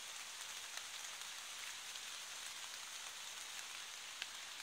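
Pouring rain: a steady hiss of falling rain with scattered individual drop ticks, one sharper drop hit about four seconds in.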